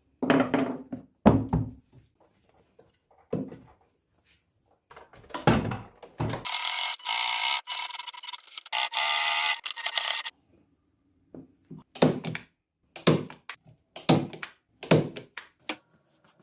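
Workshop knocks and thunks from chair repair work, single hits spaced about a second apart, with a steady noisy stretch of about four seconds in the middle from a tool or handled material.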